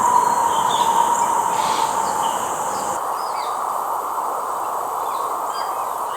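Scattered short bird chirps over a steady hum of outdoor background noise, with a droning mid-pitched band that slowly fades. The low rumble underneath drops away about halfway through.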